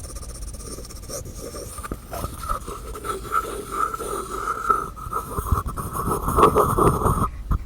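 Fingertips and nails tapping and scratching on small objects and lids: quick light clicks over a scraping rub that gets busier and louder about five seconds in, then cuts out briefly just before the end.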